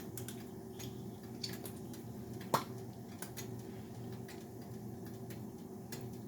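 Hot oil in a skillet giving faint, irregular pops and crackles over a low steady hum, with one louder pop about two and a half seconds in.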